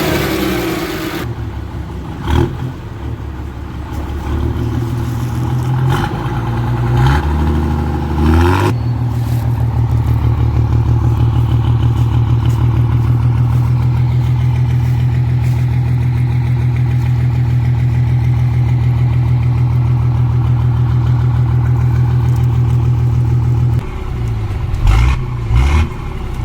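Ashok Leyland bus diesel engine, freshly cold-started after years standing, revved up and held at a steady raised speed, then let back down near the end. It is kept above idle because it stalls when left to idle. A few knocks come in the first seconds.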